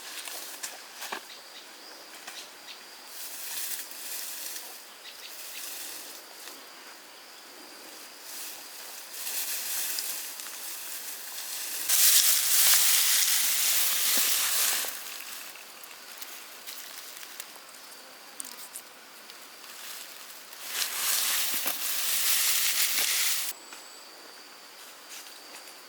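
Leaves and undergrowth rustling in several bursts of a few seconds each, the loudest about halfway through, with scattered sharp snaps and clicks between them.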